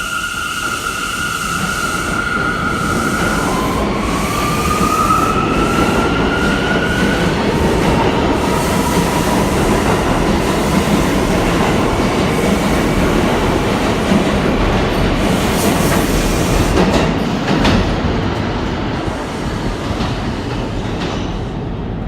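New York City subway train pulling out of the station: its traction motors give a whine that rises in pitch as it accelerates, over the rumble and clatter of the wheels, which swells and then fades as the cars go by.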